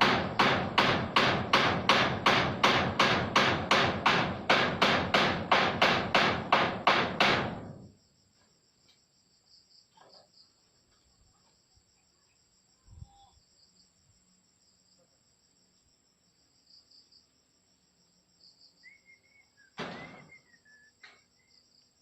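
Hammer blows, quick and even at about three a second, nailing corrugated zinc wall sheeting. They stop suddenly about seven and a half seconds in, leaving a steady high insect trill and a few faint knocks.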